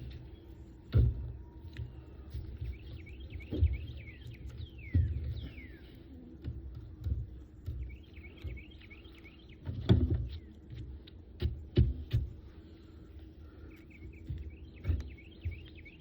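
Dull thumps and knocks of wooden beehive boxes and parts being handled and set in place, several times, with small birds chirping in quick repeated runs in the background.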